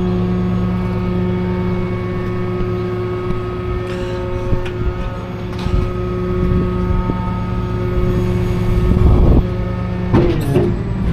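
Tow truck engine and road noise while driving, a steady drone. The low rumble grows louder about nine seconds in.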